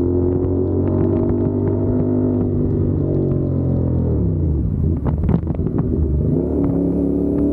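CFMOTO 450SR parallel-twin engine running at steady revs under way. About halfway through the revs fall away and run unevenly for a couple of seconds, then pick back up to a steady pitch near the end.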